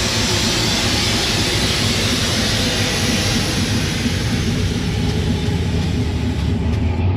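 Loud, steady hiss of escaping air, over the low rumble of an engine running; the hiss thins out near the end as the engine hum comes up.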